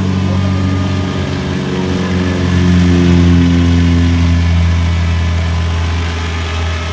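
Two-stroke gasoline engine (GT15HZ) of a 700-size scale RC helicopter running steadily at a low, even hum. It swells to its loudest about three seconds in, then eases slightly.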